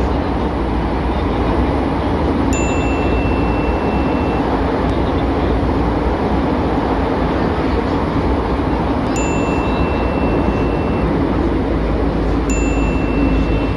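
Bucharest Metro train running: a steady rumble and rushing noise. A thin, steady high beep lasting about two seconds sounds three times: once a few seconds in, once about two thirds of the way through, and once near the end.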